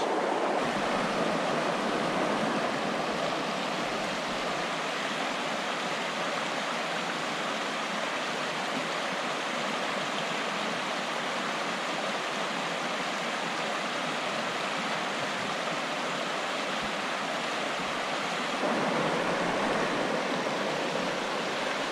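Steady rushing of a forest brook's flowing water, growing a little louder near the end.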